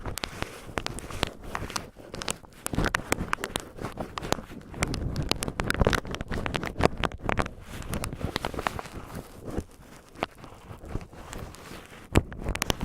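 Cotton swabs rubbed and crinkled roughly against the microphone: a dense, irregular crackling and scratching, busiest in the middle.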